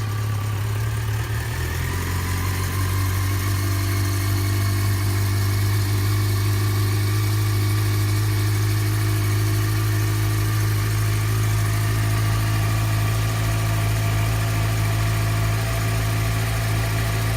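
2013 Yamaha FZ6-R's 600 cc inline-four engine idling steadily, freshly started.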